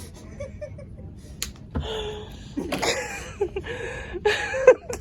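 Women laughing, with bits of voice mixed in; a sharp click about a second and a half in.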